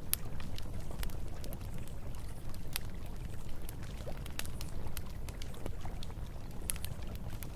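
Campfire crackling with frequent sharp, irregular pops over the steady rush of flowing river water.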